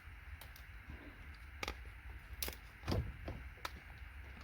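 A few scattered light clicks and taps and one dull thump from hand tools working components off a scrap circuit board, over a steady low hum.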